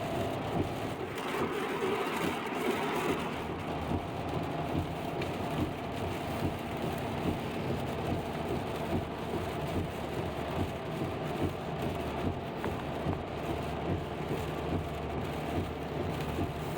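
Rain falling on a moving car, heard from inside the cabin over steady road and tyre noise, with a brief louder hiss about two seconds in.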